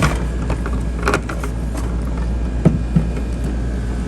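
Steady low background hum with a few short clicks and knocks from plastic parts of an opened coffee machine being handled.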